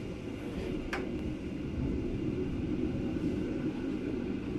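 Steady rumble of a moving passenger train heard from inside the carriage, with one brief sharp clank about a second in.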